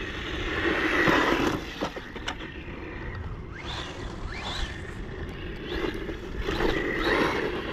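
Brushless electric motor of a 1/18-scale RC truck whining as the throttle is worked, its pitch rising and falling several times over a steady hiss of tyres and wind, with a few short clicks.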